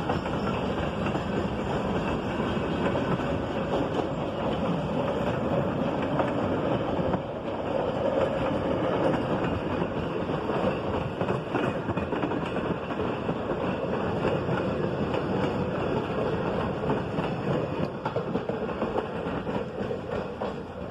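Passenger train hauled by a TGM8KM diesel locomotive running past, with a steady rumble of wheels on rails. It fades over the last few seconds as the train moves away.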